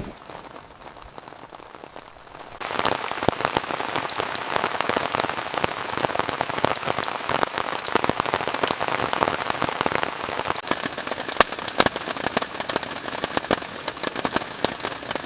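Heavy rain pattering on a surface, with many separate drop hits audible. It is lighter at first and turns abruptly louder and denser about two and a half seconds in.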